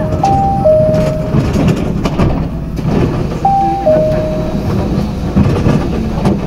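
Tokyu Setagaya Line train running, heard from inside the car: steady low rumble with sharp clicks and knocks from the rails. A two-note electronic chime, high then low, sounds near the start and again about three and a half seconds in.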